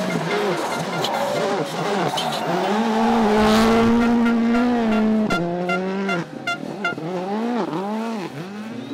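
Rally car engine at full throttle, held at high revs for a few seconds, then its revs rise and drop several times in quick succession as the driver shifts and lifts through the stage.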